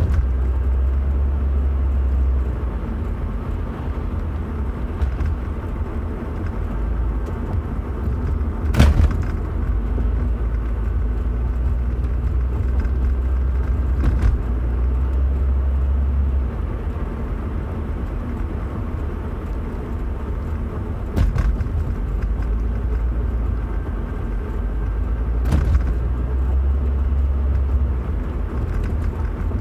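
Car running with a steady low rumble that swells and eases, broken by a few sharp knocks or clunks spread across it.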